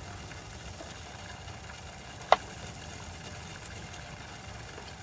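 A steady low rumble, with one sharp click a little over two seconds in.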